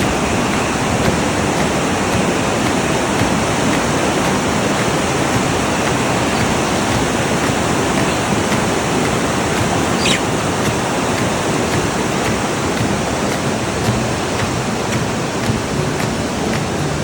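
Loud, steady rush of flowing water with no breaks, as from a fast stream or rapids.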